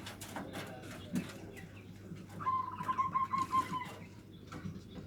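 Zebra dove (local perkutut) singing in the 'nutut' style: one rapid, pulsing string of about eight cooing notes, a bit over a second long, around the middle, with scattered small clicks around it.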